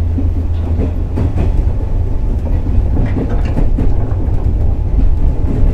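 Interior running sound of a JR Kyushu 415 series electric multiple unit under way: a heavy, steady rumble from the wheels and running gear, with faint clacks of the wheels over rail joints.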